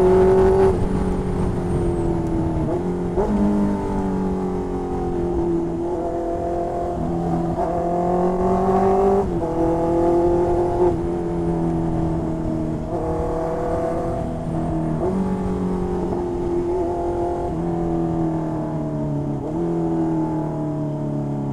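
2020 Honda CB650R's inline-four engine through an aftermarket exhaust, riding along. The revs climb and fall repeatedly, with sudden drops in pitch every few seconds as it changes gear.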